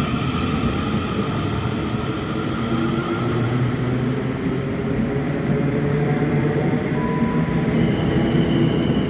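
A passenger train running, with a steady low hum and higher whining tones from its drive; the high whine fades in the first couple of seconds and a new high tone comes in near the end.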